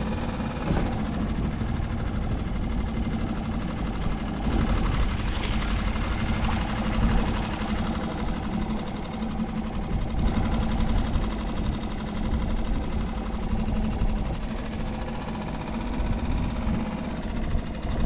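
A boat engine idling with a steady hum, under wind rumbling on the microphone.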